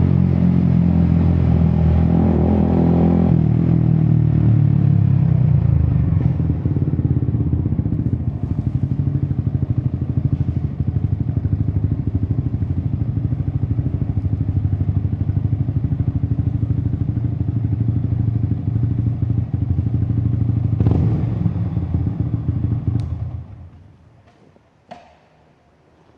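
Yamaha XSR 155's single-cylinder engine through an Akrapovic exhaust, the revs dropping as the bike slows, then idling with a steady pulsing beat and a short blip of the throttle about 21 seconds in. The engine is switched off a couple of seconds later, followed by a few faint clicks.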